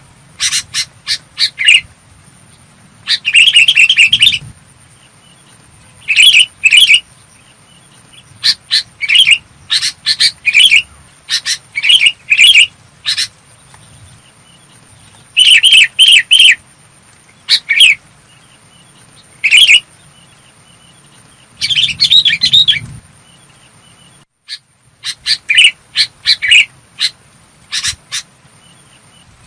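Sooty-headed bulbul calling: short, loud phrases of quick clear notes, repeated every second or two with brief pauses between.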